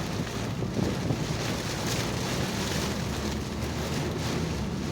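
Heavy rain pelting a moving car, with tyre and road noise from the wet road, heard from inside the cabin as a steady rushing hiss.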